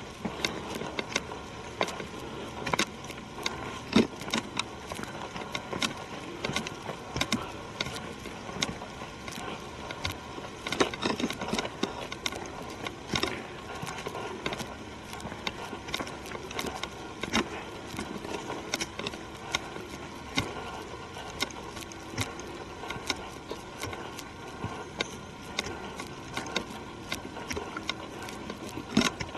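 Footsteps walking on a forest trail: irregular crunches and cracks of leaves and twigs underfoot, one or two a second.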